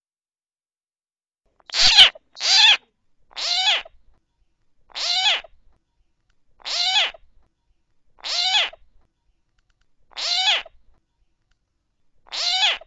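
A bird's harsh, falling call repeated about eight times, roughly every one and a half seconds, starting about two seconds in. The first two calls come close together, with a sharp click on the first.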